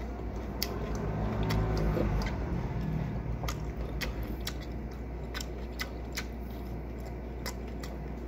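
Chewing raw cactus close to the microphone: sharp, crunchy clicks about one or two a second, over a steady low hum.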